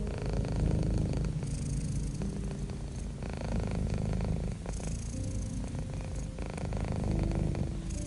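Domestic cat purring continuously, a low rumble that swells with each breath about every three seconds. Soft held music notes sound underneath.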